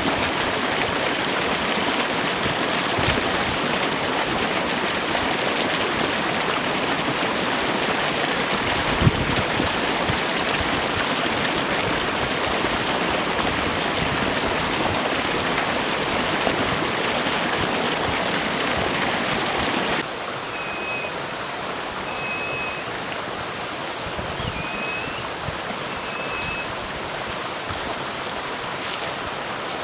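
Stream water flowing in a steady rush. About twenty seconds in, the sound drops to a quieter flow, with four short, high, whistled notes over it.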